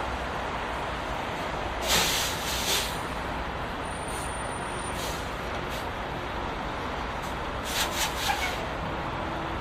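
Steady vehicle running noise, with short bursts of hissing about two seconds in and a quick cluster of hisses near the end.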